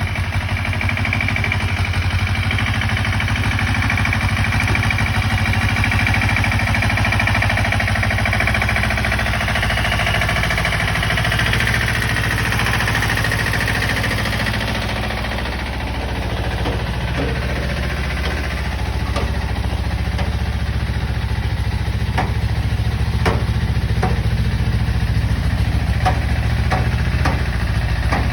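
Single-cylinder diesel engine of a patpat (two-wheel-tractor-based vehicle) running steadily as it climbs, with a string of sharp clanks and knocks joining in from about halfway through.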